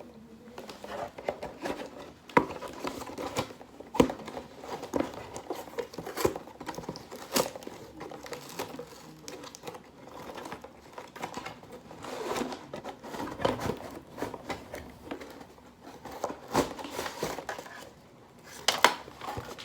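Toy packaging crinkling and rustling while it is handled, with scattered sharp clicks and knocks of the toy's pieces.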